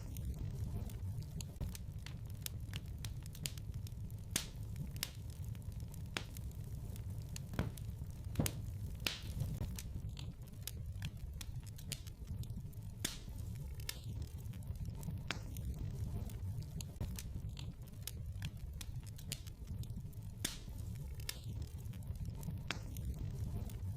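Wood fire crackling in a fireplace: irregular sharp pops and snaps over a steady low rumble of the burning.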